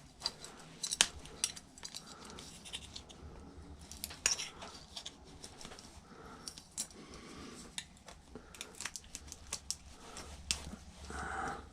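Small flathead screwdriver clicking and scraping against metal parts while prying at a clamp: scattered light clinks and scrapes, a few sharper clicks among them.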